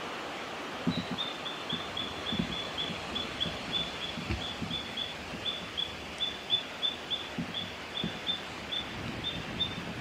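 A bird calling a long run of short, high, slightly falling notes, about three a second, starting about a second in. Under it is a steady hiss of background noise and a few soft low thuds.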